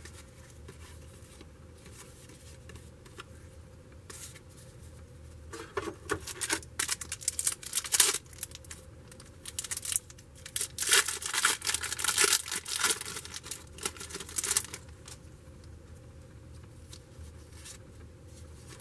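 A trading-card pack wrapper being torn open and crinkled, in two spells of ripping and rustling: the first about five to eight seconds in, the second about eleven to fifteen seconds in.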